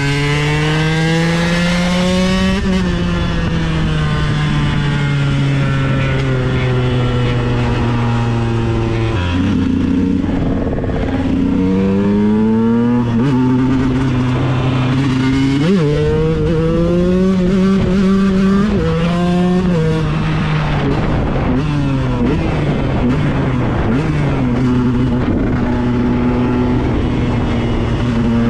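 KTM 125 EXC two-stroke single-cylinder engine being ridden hard, its pitch climbing in several short rising pulls with a drop at each gear change, and sinking slowly as the throttle is eased off between pulls.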